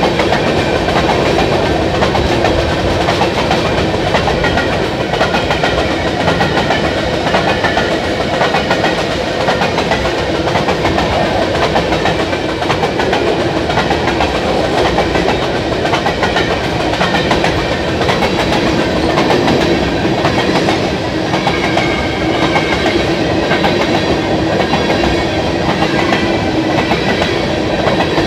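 Covered hopper cars of a freight train rolling past, a steady rumble with the clickety-clack of steel wheels over the rail joints.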